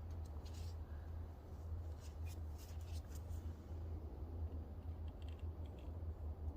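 Faint clicks and light rustles from hands applying gasket-maker sealant from a tube, mostly in the first half, over a steady low hum.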